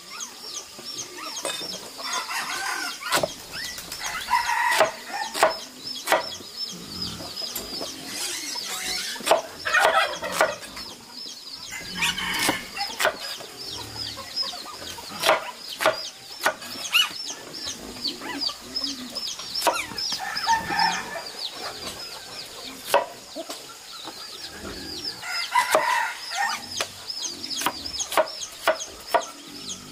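Chickens calling and clucking, with several calls lasting about a second each, over many short high-pitched chirps and frequent sharp clicks.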